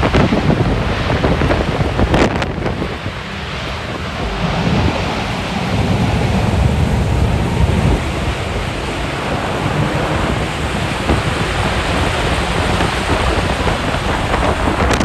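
Tornado wind noise: a loud, steady rushing with deep rumble, and wind buffeting the microphone.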